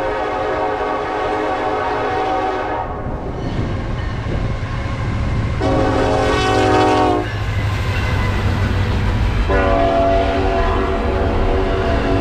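Canadian National diesel locomotive horn sounding three blasts, long, short and long, a multi-note chord over the steady low rumble of the passing train.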